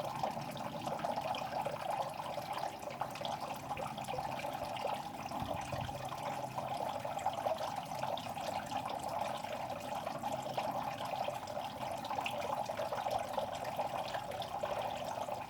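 Water in a fish pond splashing and trickling steadily, with many small crackling splashes.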